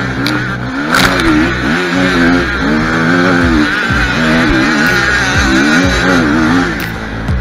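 Kawasaki KX450F's single-cylinder four-stroke engine, heard from aboard the bike, revving up and down over and over as it is ridden hard round a motocross track. A couple of sharp knocks come in about a second in.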